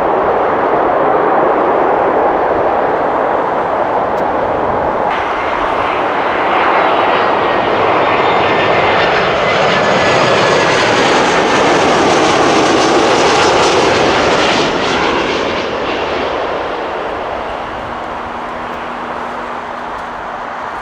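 Jet airliner passing close on its landing approach. The engine roar builds with a fan whine, is loudest about halfway through, then fades as the aircraft moves away.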